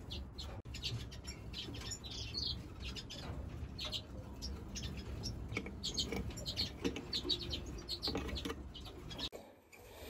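Small cage birds chirping: many short, scattered high calls over a faint low hum. It breaks off abruptly just before the end.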